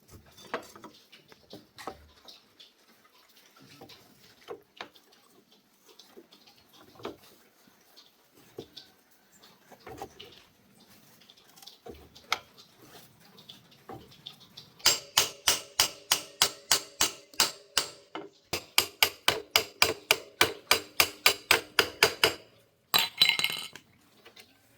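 Light clinks and knocks of metal tools and parts being handled, then two runs of rapid metal-on-metal blows, about four a second, each ringing, as when a metal part is hammered. A short harsh burst of noise follows near the end.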